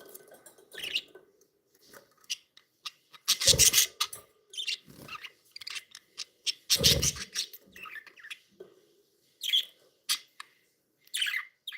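Pet budgerigars giving short, scattered chirps, with two louder scratchy rustles about three and a half and seven seconds in.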